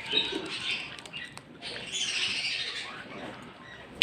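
Pet birds chirping and squawking in quick, busy chatter, growing denser about halfway through.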